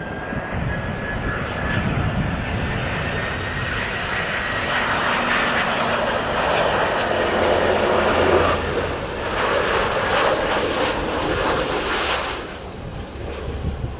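Airbus A318 jet airliner passing close on its landing, its twin jet engines running loudly with a faint whine over the noise, then falling away near the end.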